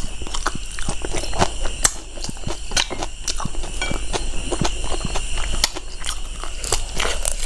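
Close-miked chewing and lip-smacking: irregular wet mouth clicks and soft crunches as a mouthful of pork rib curry and rice is eaten, over a steady faint hiss from the recording.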